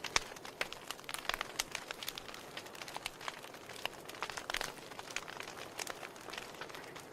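Wood fire in a fireplace crackling: irregular sharp pops and snaps from the burning logs over a soft steady hiss of the flames.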